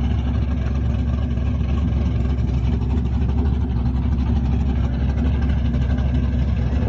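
Car engine idling steadily, a deep, even running sound with no change in pitch.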